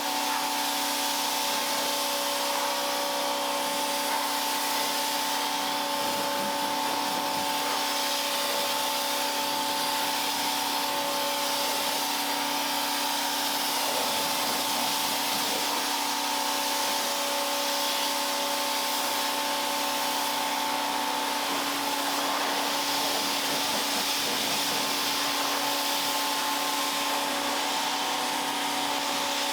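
Electric pressure washer running steadily, a motor hum with a few steady tones under the hiss of the water jet.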